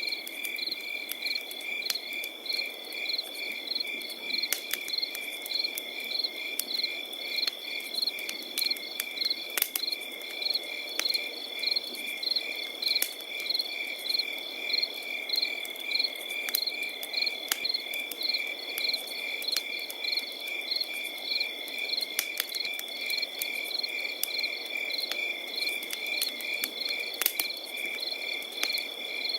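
Crickets chirping in a steady rhythm of about two or three chirps a second over a continuous high insect trill, with the sharp pops and crackles of a wood campfire now and then.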